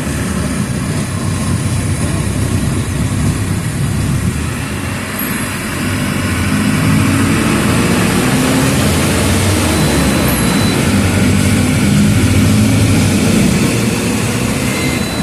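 The diesel engine of a Mercedes-Benz OF 1722M city bus running under way, with a steady low rumble. About six seconds in it grows louder and its pitch rises a little as the bus pulls harder.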